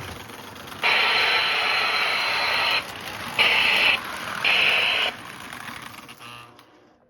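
Lionel electronic synthesized steam whistle sounding a hissy, buzzy tone: one long blast, then two short ones, over the steady running sound of the toy locomotive.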